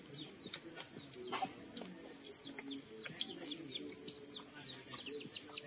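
Birds chirping in quick runs of short, high notes, each one sliding down in pitch, over a steady high-pitched hiss.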